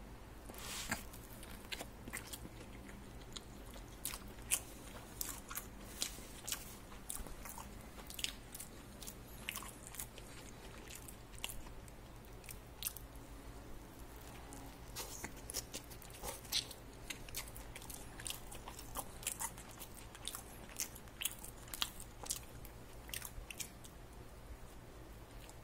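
Close-miked chewing of a mouthful of crispy fried chicken burger: irregular crunches and crackles of the fried coating, several a second, with no pause.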